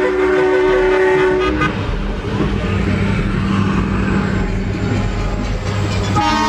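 Truck air horns blowing a multi-tone chord that stops about a second and a half in, then a heavy diesel truck engine running with a low hum, and another air horn chord starting near the end.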